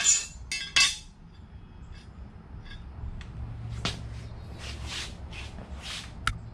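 Lawn mower blades clinking and knocking against each other as they are handled: a few sharp metallic clinks in the first second, another knock about four seconds in and two more near the end, with rustling handling noise in between.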